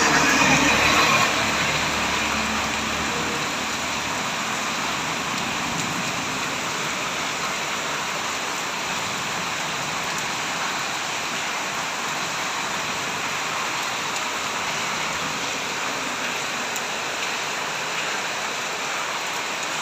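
Heavy rain falling steadily in a dense, even hiss. It is a little louder, with a low rumble underneath, in the first couple of seconds.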